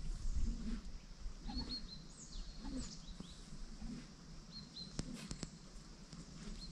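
Small birds chirping: short high chirps that come again and again, over a low outdoor rumble, with a few sharp clicks about five seconds in.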